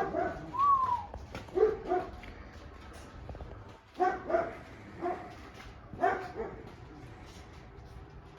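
A dog barking in short single barks, several in a few seconds, with a brief rising-and-falling whine about half a second in.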